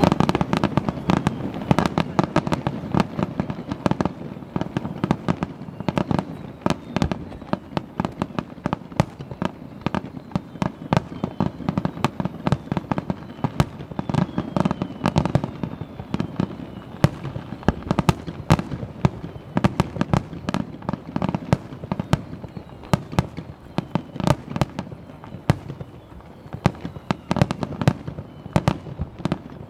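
Fireworks display: aerial shells bursting in a dense, continuous barrage of sharp bangs and crackles, many a second, over a low rumble.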